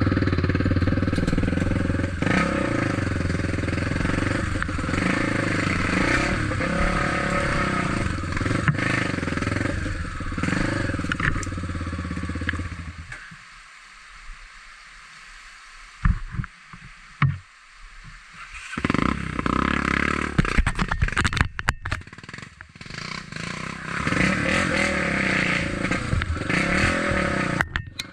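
Trail motorcycle engine running under way, with clattering and scraping over rough ground. About thirteen seconds in, the engine sound drops away for roughly five seconds, with a few knocks, then picks up again.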